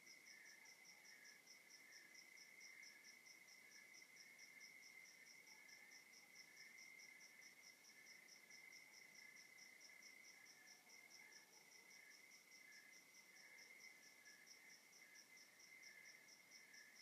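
Faint chorus of night crickets: one chirps in a steady, even pulse while another keeps up a continuous trill.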